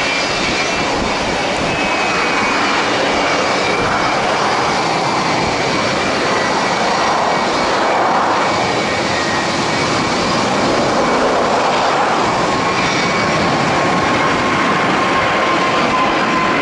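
Boeing 777 twin jet engines at departure thrust: a steady, loud roar with thin whining tones over it, one whine slowly falling in pitch over the last few seconds.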